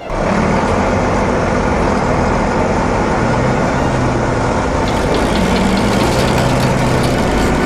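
Heavy truck engine running steadily with a low hum, a vehicle sound effect that cuts in suddenly at the start.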